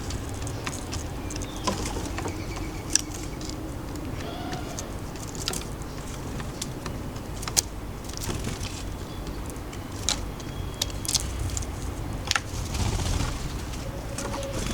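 Urban garden ambience: a steady low rumble of distant city traffic, with scattered sharp clicks and taps throughout.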